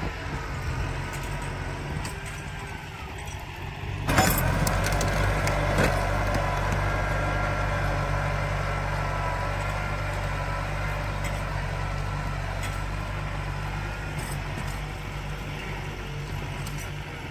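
Tractor engine running steadily, with a thin high whine over the low drone. About four seconds in there is a sharp knock, and the engine is louder from then on.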